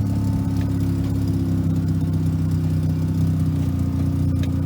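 Mazda Renesis two-rotor rotary engine in a 1980 RX7 race car idling steadily, its pitch stepping slightly about three and a half seconds in.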